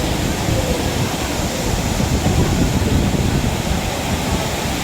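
Waterfall: a loud, steady rush of falling water, heaviest in the low range.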